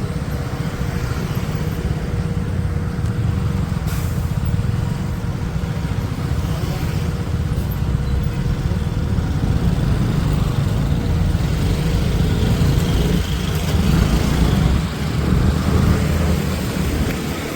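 Motorcycle being ridden on a town road: engine and road noise under a heavy, steady low rumble.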